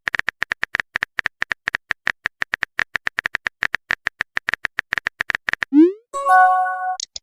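Chat-app typing sound effect: rapid short clicks, about eight a second, as a message is typed. Near the end a quick rising swoop and a bright chime mark the message being sent.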